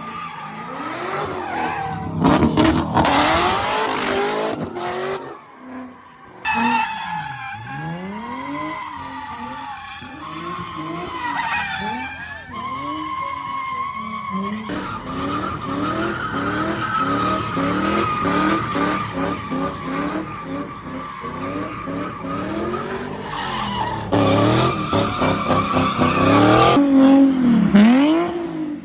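Cars doing burnouts and donuts: engines revving up and down under long, wavering tyre squeal. The sound changes abruptly several times, about six, fifteen and twenty-four seconds in.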